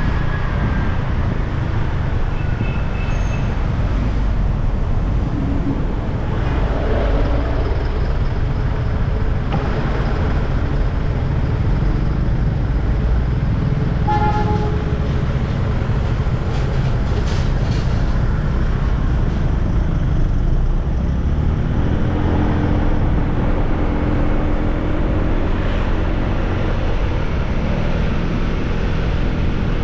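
Steady road and wind noise from riding a motorbike through traffic, with other vehicles passing. A short horn toot sounds about halfway through.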